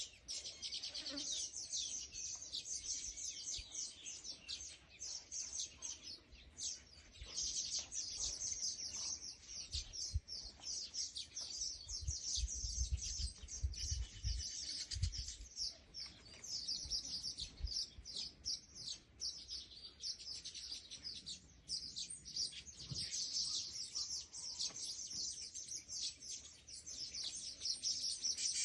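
Birds chirping continuously, many rapid, high-pitched overlapping calls, with brief low rumbles in the middle.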